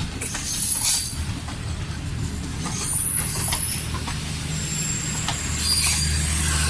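A train at a station: a diesel locomotive's engine running with a steady low drone that swells near the end, with a few brief high-pitched squeals and hisses from the train.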